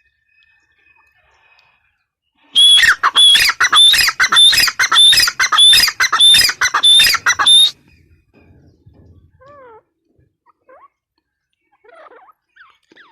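Grey francolin calling: a fast run of loud, shrill, repeated notes. It starts a couple of seconds in and stops suddenly after about five seconds, then only faint chirps follow.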